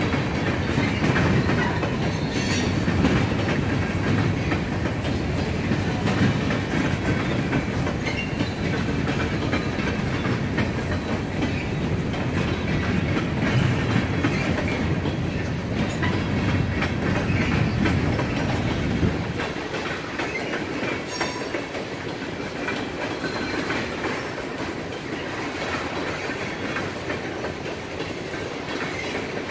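Freight train of coil steel cars rolling past, its steel wheels clacking steadily over the rails with a deep rumble. The low rumble eases off about two-thirds of the way through.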